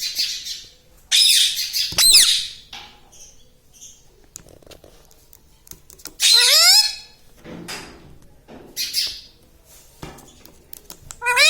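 Indian ringneck parrot squawking: harsh screeches at the start and again about one to two seconds in, a single rising call around six seconds, and a run of wavering calls just before the end.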